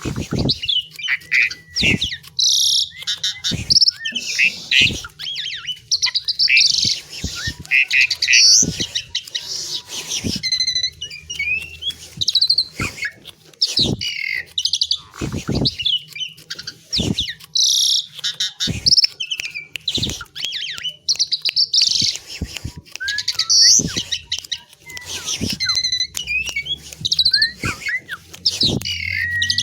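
Asian pied myna singing a long, varied song of chirps, whistles and harsh squawks, with frequent sharp clicks.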